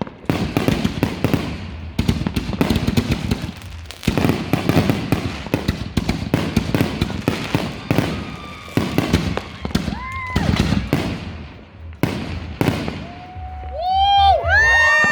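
Consumer fireworks going off in dense runs of rapid cracks and pops. Near the end, many whistling fireworks sound together, each whistle rising, holding and then falling.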